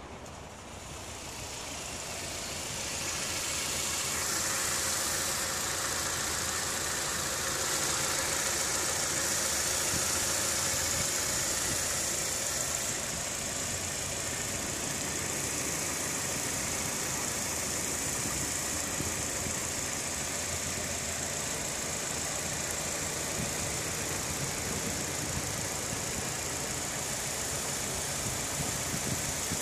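Hyundai Matrix engine idling steadily on freshly changed oil. It grows louder over the first few seconds, then holds even.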